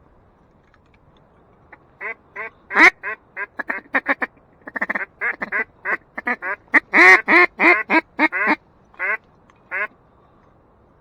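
Duck quacking: a loud run of about twenty short, nasal mallard-style quacks that starts about two seconds in, comes fastest in the middle and tails off with two spaced quacks near the end.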